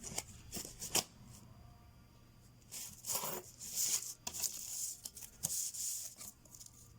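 Scissors cutting a sheet of paper-like covering in short separate snips, with rustling as the sheet is handled. A quiet stretch about a second in, then more snips and rustles from about three seconds in.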